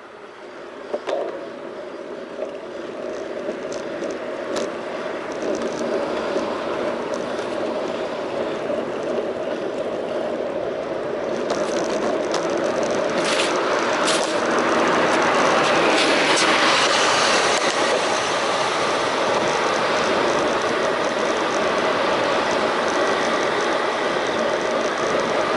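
Riding noise from a bicycle under way: wind and tyre hiss picked up by a bike-mounted action camera. It grows louder over the first half as speed builds, then holds steady. A few light clicks come in the first seconds.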